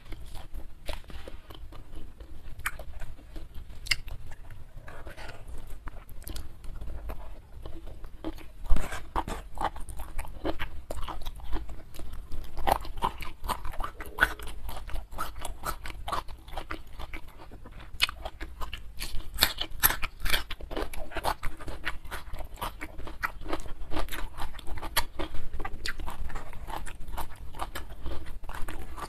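Close-miked chewing and crunching of a hand-eaten mouthful of rice, prawns and raw greens, with many small mouth clicks. There is a single sharp knock about nine seconds in.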